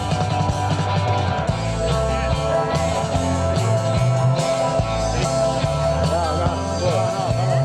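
Live rock music: guitar over a bass and drum beat, with held and wavering melody notes.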